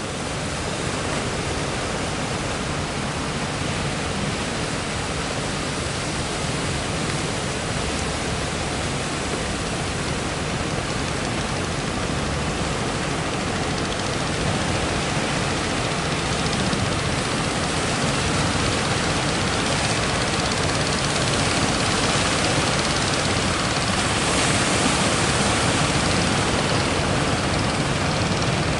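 Steady roar of heavy surf, an even hiss with no separate breakers standing out, growing a little louder in the last third.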